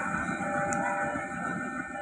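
A passing train's running noise slowly fading, with several steady high tones over it.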